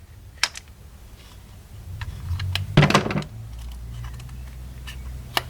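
Sharp clicks and knocks of hands handling the cordless drill's plastic parts, the loudest near the middle. A low steady hum comes in around the same time and continues.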